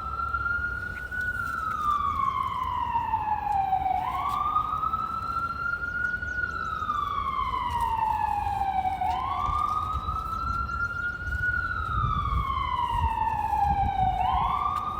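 Emergency vehicle siren on a slow wail: each cycle rises quickly in pitch, then falls slowly, repeating about every five seconds, over a low rumble of city traffic.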